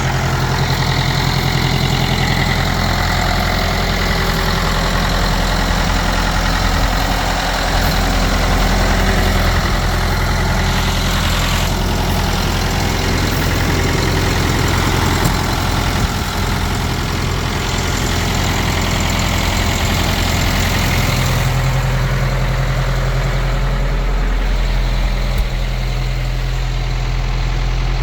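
Ford 7610 tractor's four-cylinder diesel engine running steadily, its note shifting slightly about three-quarters of the way through.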